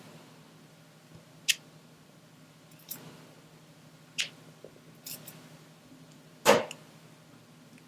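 Diamond painting drill pen tapping resin drills onto the sticky canvas: short separate sticky clicks about every second, the loudest one late on.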